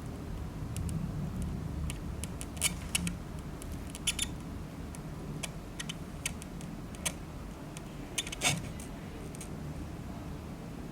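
Irregular sharp clicks and taps, a dozen or so, over a steady low rumble.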